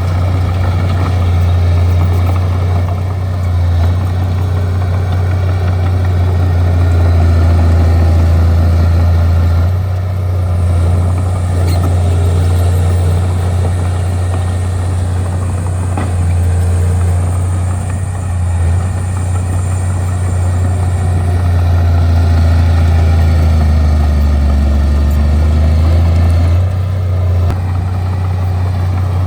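Bulldozer's diesel engine running steadily with a deep, low drone, its loudness rising and falling a little as the machine works.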